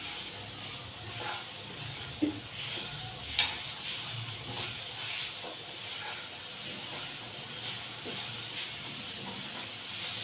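Diced potatoes sizzling gently in a little oil and spices in a frying pan on low heat, stirred with a silicone spatula. A couple of short knocks of the spatula against the pan a few seconds in.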